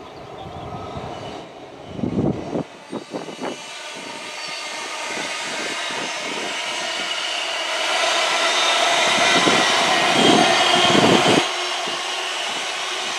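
Electric express passenger train passing at speed on the main line: a growing rush of wheels on rail and air that swells as the carriages go by. Near the end a deep rumble cuts off suddenly as the train clears, leaving a hiss. Short gusts buffet the microphone about two seconds in and again while the carriages pass.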